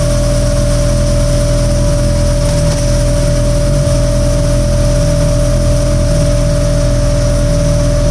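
Suzuki Hayabusa's 1340 cc inline-four running at a steady speed through an Akrapovic full exhaust, loud and even with no revving, with a steady high tone over it.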